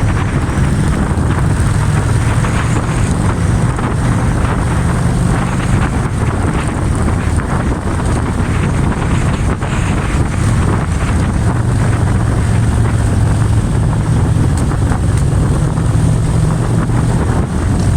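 Motorcycle engine running at a steady pitch, with wind noise on the microphone.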